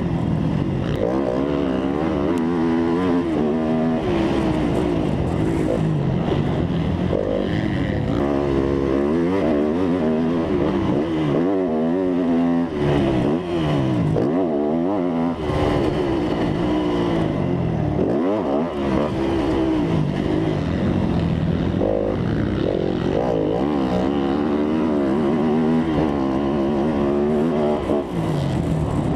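Motocross dirt bike engines revving, the pitch rising and falling again and again with throttle and gear changes. Several engine notes overlap at times.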